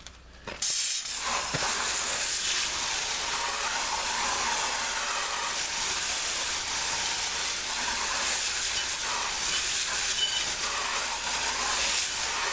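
Water spraying hard from a hose, rinsing sprayed-on tire cleaner off before it dries: a steady hiss that starts about half a second in.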